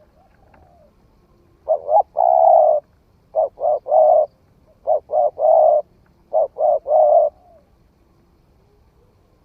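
Spotted dove cooing: four phrases about a second and a half apart, each a couple of short notes followed by a longer coo, with a faint coo just before the first phrase.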